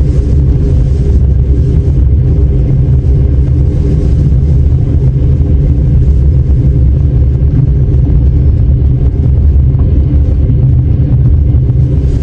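Russian Railways passenger train running, heard from inside the carriage: a loud, steady low rumble of the car rolling along the track.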